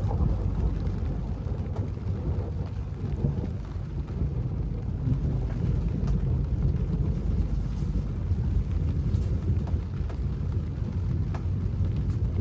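Storm on a boat: a steady low rumble of wind and rain with scattered taps of raindrops.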